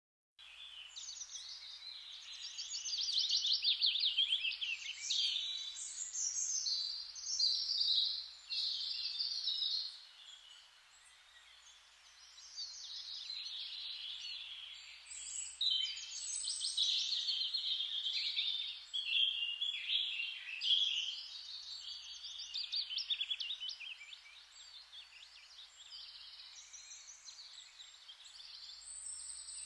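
Songbirds singing: a dense run of rapid chirps and trills, with a brief quieter lull about a third of the way through.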